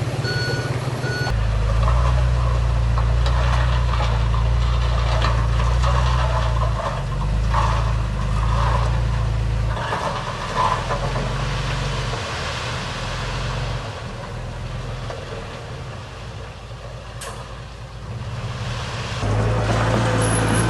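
Heavy diesel engines of earthmoving machines running at work, with a reversing beeper that stops about a second in. The engine note eases off briefly in the second half and then picks up again near the end.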